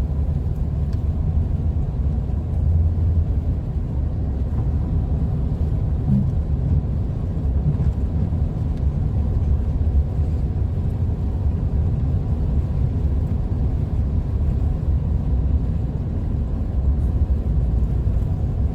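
Steady low rumble of a car driving on a wet, slushy road in snow, heard inside the cabin: engine and tyre noise running evenly.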